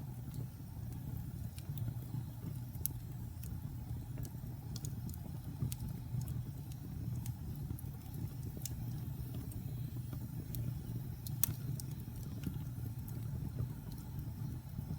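Wood fire burning in a fireplace: a steady low rumble of the flames with irregular sharp crackles and pops scattered through it, the loudest pop about eleven seconds in.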